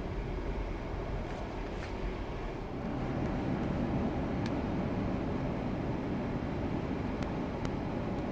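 Steady rumble of a car's engine and tyres driving on an icy, snow-covered road, a little louder from about three seconds in, with a few faint ticks.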